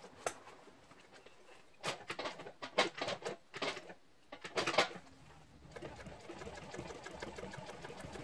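Sewing machine running steadily at a fast even stitch from past the halfway point, after a few seconds of irregular sharp clicks and clacks.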